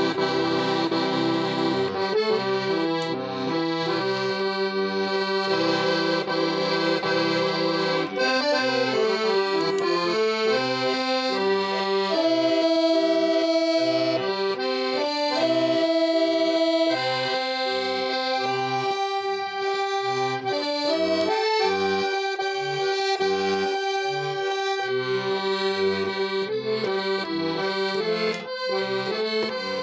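Accordion music: a steady melody over sustained chords and a stepping bass line.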